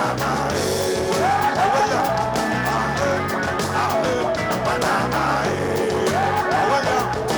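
Band music playing a rock-style instrumental passage: a steady drum beat and bass under a gliding lead melody.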